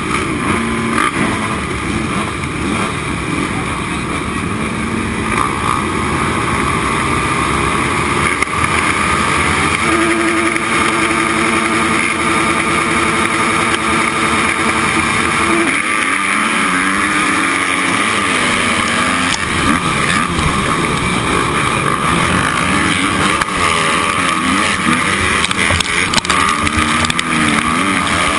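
Motocross motorcycle engine running hard under race load, its pitch rising and falling as it accelerates and shifts, holding one steady note for a few seconds partway through.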